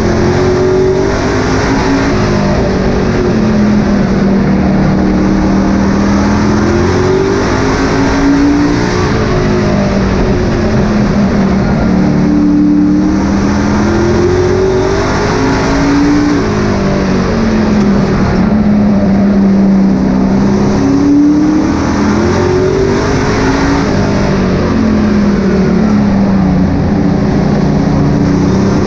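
Racing trucks' engines running hard around a short oval, the pitch rising on the straights and dropping into the turns every few seconds, lap after lap.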